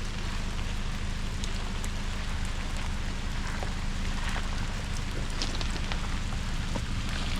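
Rain falling on a vehicle, many small drop ticks over an even hiss, with a steady low engine drone underneath.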